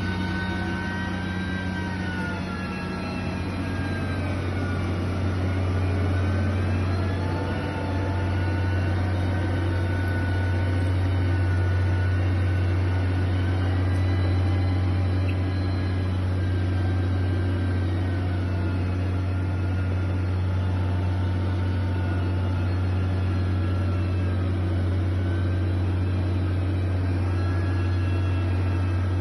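Heavy diesel construction machinery running steadily: a deep, constant engine hum with a whine above it that slowly wavers up and down in pitch.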